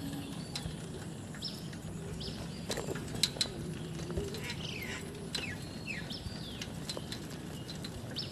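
Birds chirping in short high notes, with a few falling whistled calls in the middle, over a faint steady low hum. A couple of sharp clicks about three seconds in.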